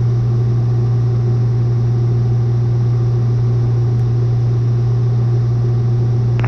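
Cessna 182's engine and propeller droning steadily in cruise flight, heard inside the cockpit as an unchanging low hum with noise over it.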